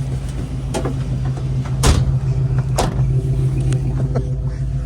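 1989 Chevy K5 Blazer's engine idling steadily with a low hum, with three sharp knocks about a second apart, the loudest about two seconds in.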